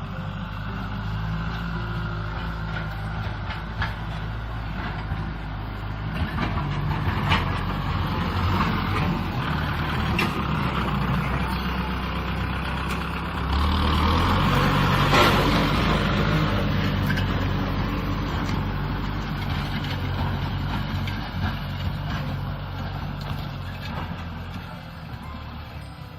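Kubota M6040 SU tractor's diesel engine running steadily. It grows louder to a peak about halfway through, then fades, with a few scattered knocks along the way.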